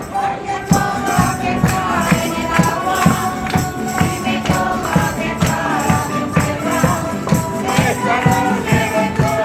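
Canarian rondalla playing traditional folk music: voices singing together over strummed plucked strings, with a steady beat.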